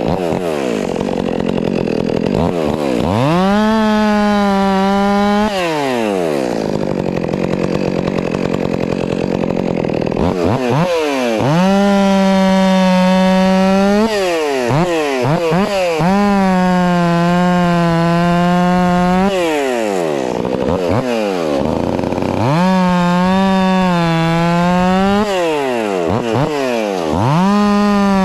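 Stihl MS 400 C two-stroke chainsaw bucking firewood. It is revved up to full throttle and held for one to three seconds at a time, about five times, dropping back toward idle between cuts.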